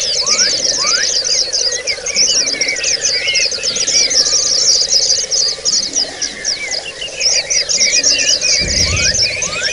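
A flock of white-eyes (pleci) calling together: a dense, continuous chorus of rapid high chirps and twittering with repeated rising slurred notes, over a steady low hum. A brief low rumble comes near the end.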